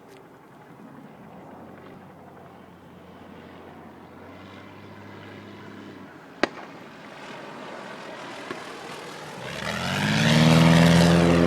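Banner-tow airplane's propeller engine, faint and growing slowly louder as it approaches, then running loud from about nine and a half seconds in as it makes a low banner-pickup pass. A single sharp click comes about six and a half seconds in.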